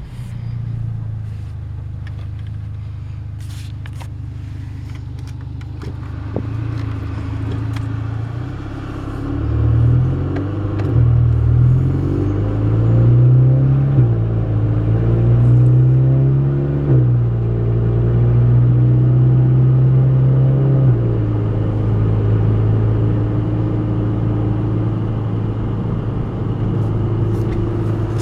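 Volkswagen MK6 GTI's turbocharged four-cylinder running through a 3-inch APR downpipe and straight pipes with no muffler, heard from inside the cabin while driving with the engine still cold. At first it is a bubbly, gargly low drone. About nine seconds in it pulls up through the gears, the pitch rising and dropping back four times at the shifts, then it settles into a steady cruising drone.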